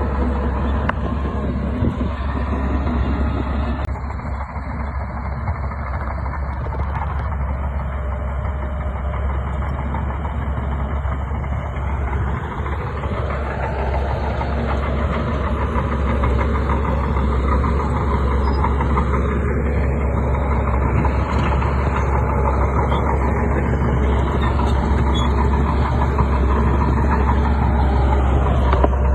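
Shantui bulldozer's diesel engine running hard under load, its pitch rising and falling a few times as it works, growing a little louder toward the end.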